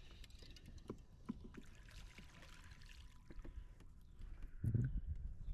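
Faint water trickling and light knocks around a fishing kayak, with a louder low rumble starting near the end.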